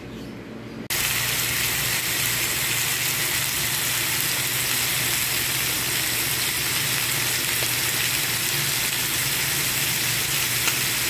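Chicken breast fillets with onion and green pepper sizzling steadily in a hot frying pan. The sizzle cuts in about a second in.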